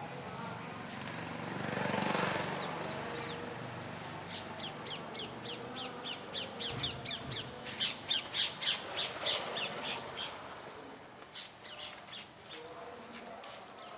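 A bird calling in a rapid series of short, sharp, high calls, about three a second, that grow louder and then fade, with a few more calls near the end. Before the calls there is a brief swell of noise.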